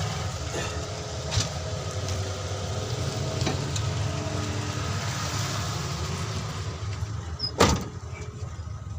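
Light metal tool clicks while a steel pulley is pried loose, with one loud sharp metal knock near the end, over a steady low hum in the background.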